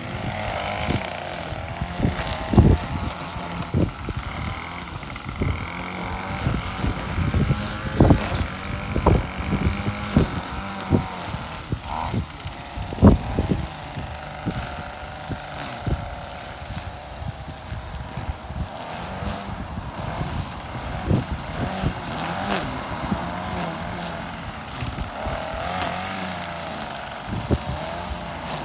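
Gas string trimmer (whipper snipper) running steadily at speed, its engine whine wavering a little in pitch, with scattered sharp knocks and ticks throughout.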